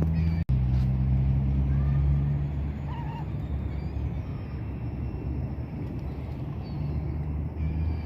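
A steady low rumble outdoors, with faint short bird chirps now and then above it. All sound cuts out for an instant about half a second in.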